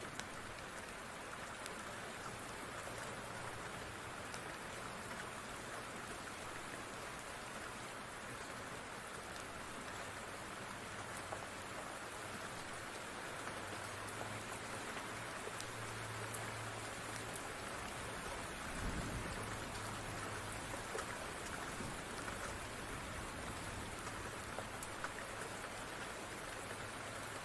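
Steady rain falling, an even hiss with scattered faint ticks of drops. About two-thirds of the way through there is a brief low thud.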